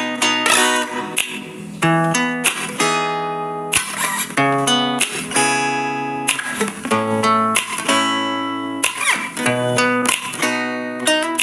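Background music: acoustic guitar picking a melody with some strummed chords.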